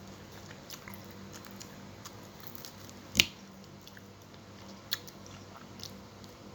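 Close-miked chewing and mouth noises of a person eating, with one sharp, loud click about three seconds in and a smaller one near the end.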